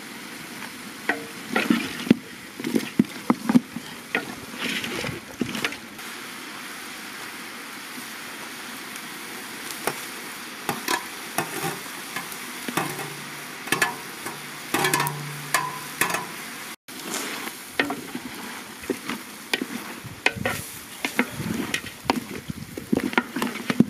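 Lamb pieces sizzling in a large metal pot as a wooden spatula stirs them, giving irregular knocks and scrapes over a steady frying hiss.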